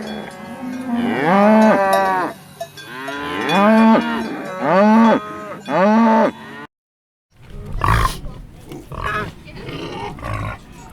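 Cattle mooing: about six drawn-out calls in a row, each rising and falling in pitch. After a short gap, a rougher, noisier animal sound follows.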